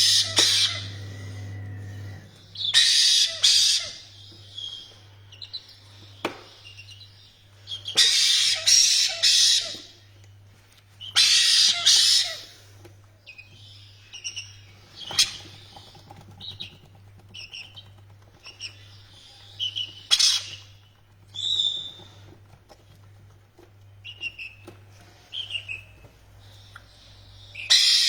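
Pet parrots screeching in repeated harsh bursts of about a second or two each, with shorter chirps and whistled calls in between. A steady low hum runs underneath.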